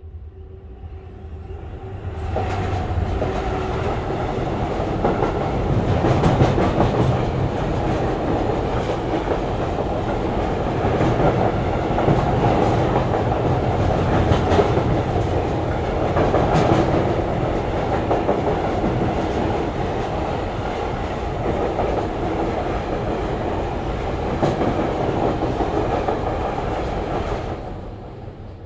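A train crossing a riveted steel girder railway bridge, heard from beneath the deck: a loud, steady rumble of wheels on rail and the metal structure, with many sharp knocks from the wheels. It rises steeply about two seconds in and drops away near the end.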